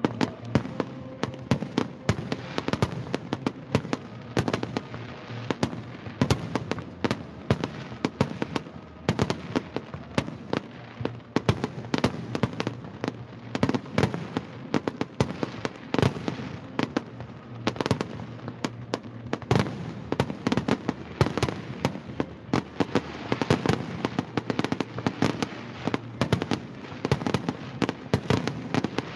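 Fireworks display: a dense, continuous barrage of bangs and crackling shell bursts, many per second.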